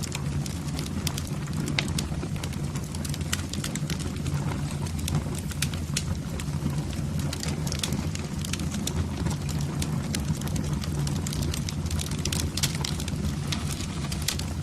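Wood fire burning in a fireplace: many irregular crackles and snaps from the burning logs over a steady low rumble of the flames.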